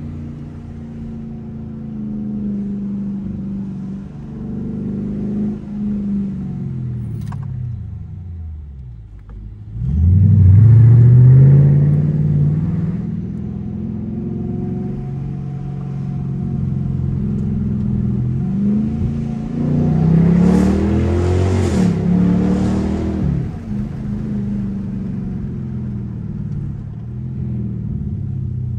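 Straight-piped 2021 Dodge Durango R/T's 5.7-litre HEMI V8, heard from inside the cabin while driving. The engine note falls as the driver eases off, then rises sharply under hard acceleration about ten seconds in, the loudest part. A second rise under throttle comes about twenty seconds in.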